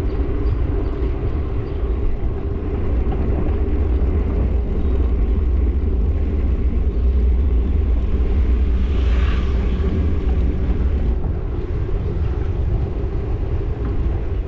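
Steady low wind and road rumble on a camera microphone while riding a bike along a road, with a brief hiss about nine seconds in.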